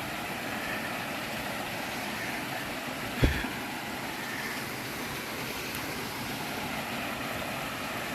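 Steady rush of a small waterfall and creek water, with a single dull thump about three seconds in.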